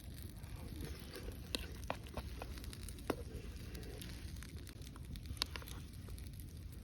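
Campfire crackling: a few sharp pops from burning wood, scattered irregularly over a steady low rumble.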